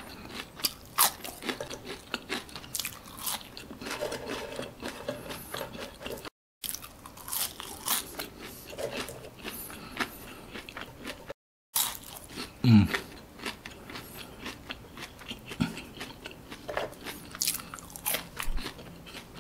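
Close-miked crunching and chewing of crispy seasoned curly fries, with repeated sharp crackles as each piece is bitten; the fries are still crisp.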